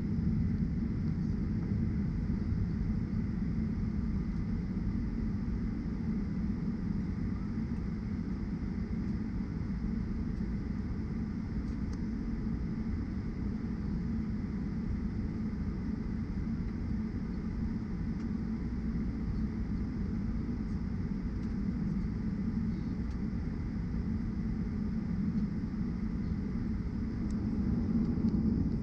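Steady low rumble inside the cabin of a Boeing 737-900ER taxiing, its CFM56-7B engines running at low thrust, growing a little louder near the end.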